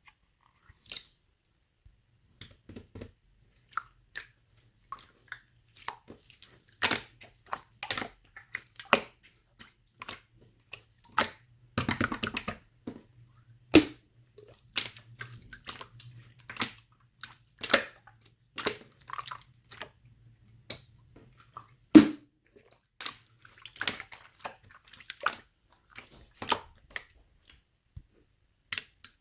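Small items being handled and packed close to the microphone: irregular taps, clicks and crinkles, two sharper knocks about 14 and 22 seconds in, over a faint low hum that stops a few seconds before the end.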